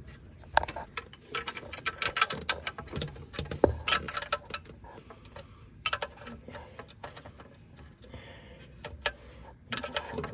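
Hand tools and metal parts clicking and clinking while the golf cart's accelerator cable linkage is worked on, in quick irregular clusters that are busiest in the first half and thin out later.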